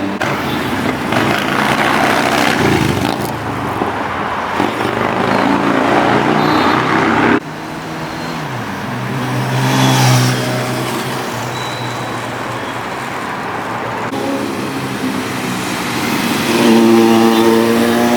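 Superbike engines revving and passing by one after another, their pitch rising and falling. The sound cuts off suddenly about seven seconds in, another bike passes at about ten seconds, and a further one builds up near the end.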